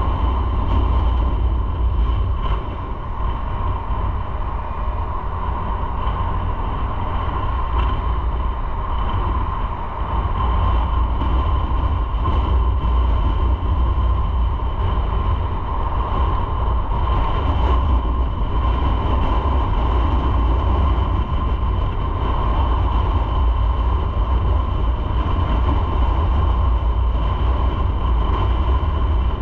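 Onboard sound of a motorcycle riding at steady speed: a constant deep rumble of wind on the microphone over engine and road noise, with a steady hum through it.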